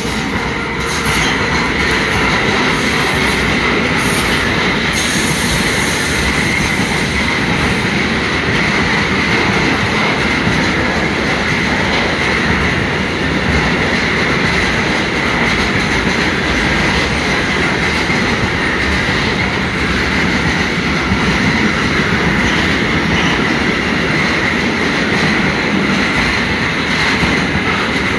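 Freight train of grain hopper wagons, hauled by an HSL class 187 electric locomotive, rolling steadily past, loud and continuous, with a steady high-pitched tone over the rolling noise.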